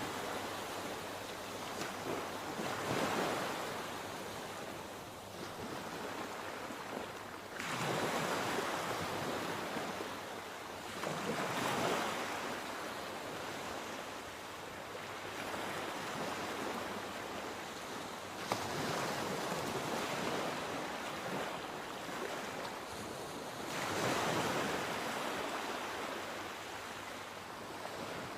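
Sea waves breaking and washing, the surf swelling and easing five times every four to six seconds.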